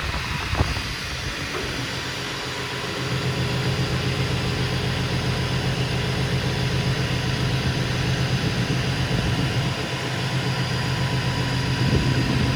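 Flatbed rollback tow truck's engine running steadily as the truck is driven with a motorcycle strapped on the bed, a low even drone that grows a little louder about three seconds in.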